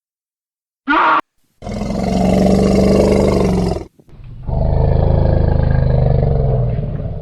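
A big cat roaring: a short call about a second in, then two long, deep roars, the second one longer.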